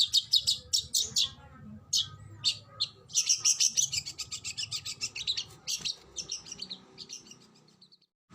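Oriental magpie-robin (kacer) singing a rapid series of sharp, high repeated notes, breaking into a dense fast run about three seconds in, then thinning out and fading away near the end.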